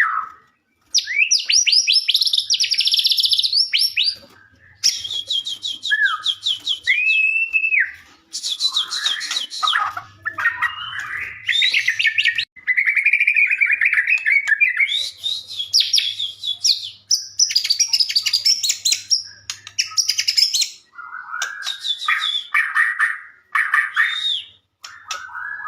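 White-rumped shama (murai batu) singing in full voice: a long, varied song of rapid high trills and rattles mixed with clear whistled slurs, broken only by brief pauses.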